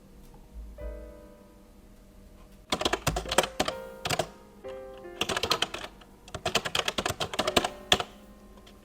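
Rapid typing on a computer keyboard in two quick runs, starting almost three seconds in and stopping about a second before the end, over soft background piano music.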